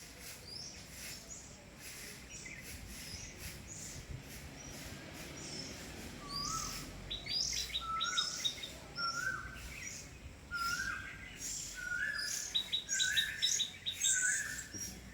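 Several wild birds calling in a morning jungle chorus, with many short high chirps. From about six seconds in, one bird repeats a short low phrase every second or so, each time alongside a rapid series of higher notes.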